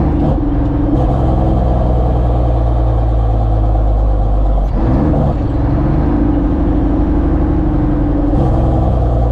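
A vehicle engine running steadily under load, its pitch shifting about halfway through and again near the end.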